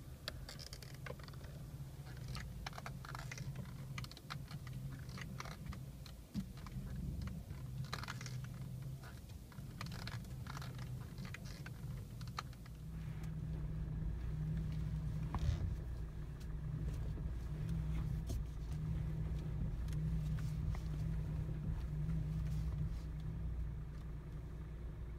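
Kia Rio steering wheel turned with the engine idling, giving repeated short creaks and clicks from the steering column, the sign of a defective clock spring (steering column contact ring). About 13 s in the creaking stops, and only the low idle hum of the car remains as the wheel turns silently.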